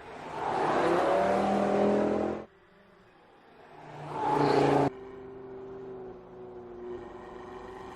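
Audi TT RS's 2.5-litre turbocharged five-cylinder engine revving hard twice, each rev rising in pitch and cutting off suddenly. It then settles into a lower, steady engine note.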